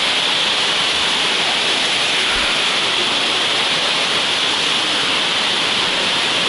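Steady rushing roar of a mountain waterfall, an even unbroken wash of falling water.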